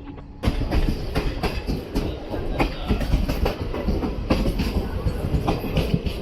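Train running on the track, its wheels clattering over rail joints in irregular sharp clicks and knocks; the sound starts abruptly about half a second in.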